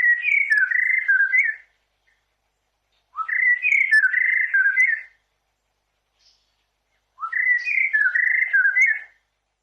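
Chorister robin-chat singing: three rich, whistled warbling phrases, each lasting a second and a half to two seconds, separated by pauses of a second or two.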